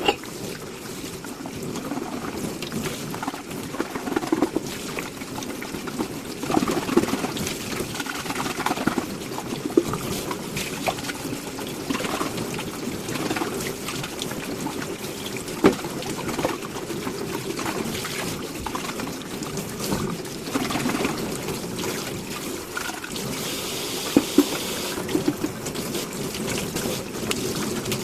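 Hand-washing dishes in a kitchen sink: water sloshing and trickling, with scattered clinks and knocks of dishware.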